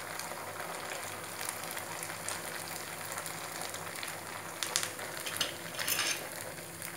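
Malpua batter pancakes frying in hot ghee in a shallow non-stick pan: a steady sizzle. A few brief louder noises come a little past the middle.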